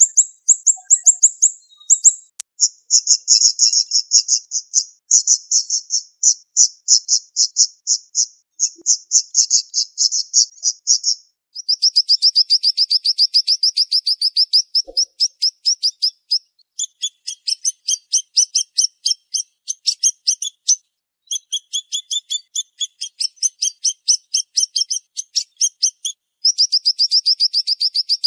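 Siri-siri songbird singing long, rapid strings of sharp, high chirps, the notes packed closely together in phrases several seconds long with short pauses between them.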